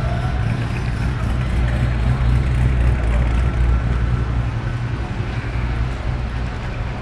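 Cruising cars' engines and exhausts rumbling low as they roll past slowly at close range. The rumble swells a little as a car passes, about two to four seconds in.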